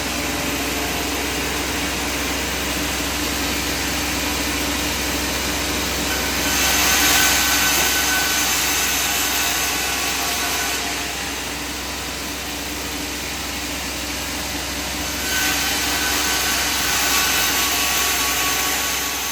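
Sawmill machinery running steadily, with two louder passes of about four seconds each as the saw cuts through timber.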